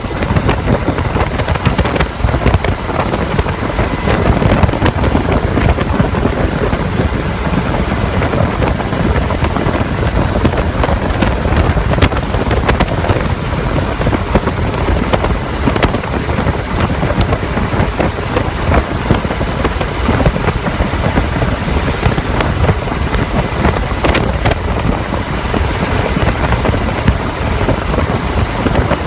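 Helicopter rotor and engine noise, loud and steady, heard from aboard the helicopter.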